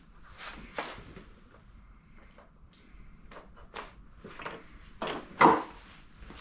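Handling noises: scattered knocks, clicks and light clatter of parts and cord being moved, with one louder thump near the end. The compressor is not running.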